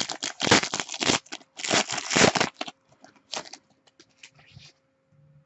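Plastic wrapping of sealed Select basketball trading-card packaging being torn open and crumpled, a dense crackling burst for the first two to three seconds, then sparser, quieter crinkles and clicks as the cards are handled.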